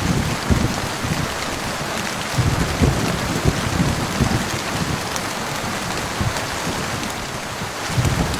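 Heavy rain falling steadily, with irregular low rumbles and thuds underneath that come in clusters near the start, in the middle and near the end.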